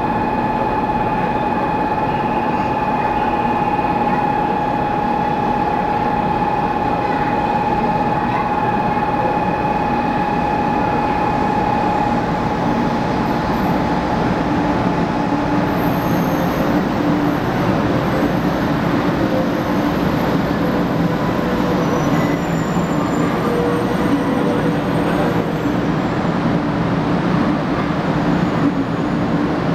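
A steady electronic warning tone sounds until about twelve seconds in, then a 500 series Shinkansen train pulls slowly into the platform. Its running gear hums, with high whines, one of them shifting in pitch, as it slows toward a stop.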